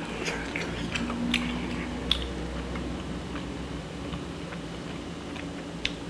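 A person chewing a mouthful of steak and grilled vegetables close to the microphone. A few sharp clicks of a metal fork on the skillet come through, the loudest about two seconds in and again near the end.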